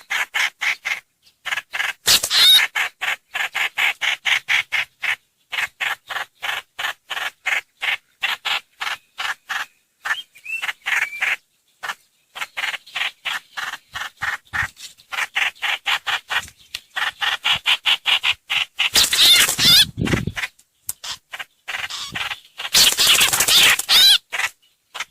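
Lure-call recording of the trao trảo (hoành hoạch) bird: a fast, steady run of short harsh chattering notes, about four or five a second, broken by a few louder, raspier bursts.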